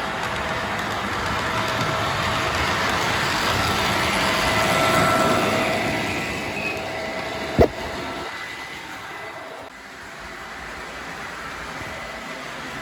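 Model train running on the layout track, growing louder as it passes close about five seconds in, then fading away. A single sharp click comes about seven and a half seconds in.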